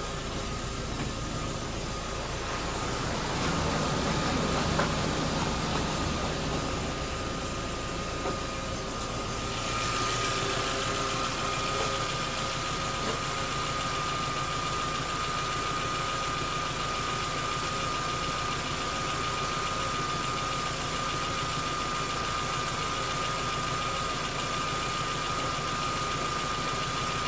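Volkswagen Golf engine running at idle, steady throughout, swelling slightly a few seconds in. From about ten seconds in, a steady thin whine sits over the idle.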